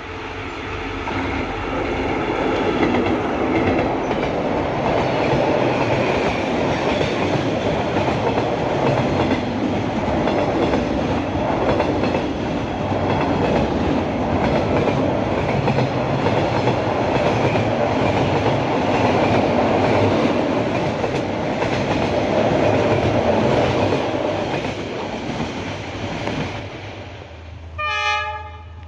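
A train running past close by, a loud steady rumble and clatter of wheels on rails that builds over the first couple of seconds. A short horn blast sounds about a second before the end.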